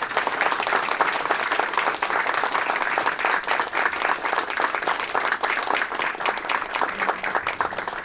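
An audience applauding steadily as the President enters the hall.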